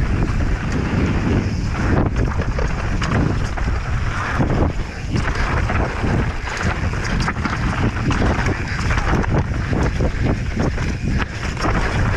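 Wind buffeting the mountain biker's camera microphone during a fast descent, over constant clatter and knocking from the bike on rough ground, ridden on a punctured tyre.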